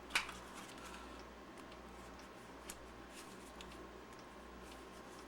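Battery pack case halves being handled and pressed together: one sharp click a fraction of a second in, then a few faint small ticks over a steady low hum.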